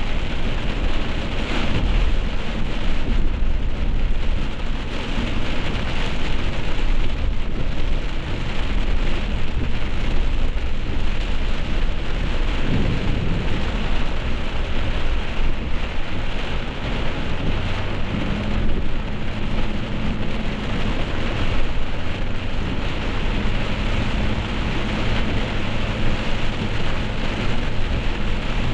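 Heavy rain falling, a dense steady hiss with a deep low rumble underneath; a faint steady hum joins in about two-thirds of the way through.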